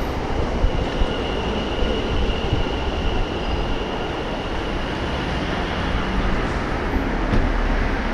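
A train moving through a railway station: a steady rumble with a thin, high tone held through most of it.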